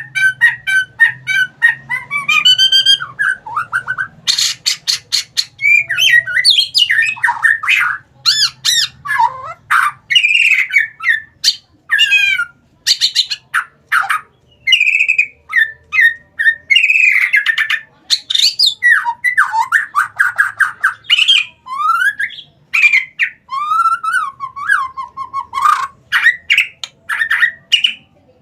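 Male white-rumped shama singing continuously in energetic, fired-up song: a rapid, varied stream of loud whistles, rising and falling glides, trills and harsh chattering notes.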